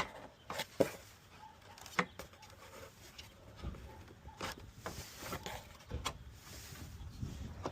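Scattered light clicks and knocks of hard parts and tools being handled during radiator fan work, with a sharper knock about two seconds in and another about six seconds in.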